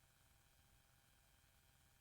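Near silence: faint room tone and recording hiss.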